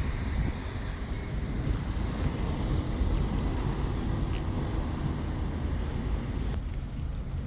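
Street traffic: a steady low rumble of passing road vehicles, with a faint engine hum in the middle.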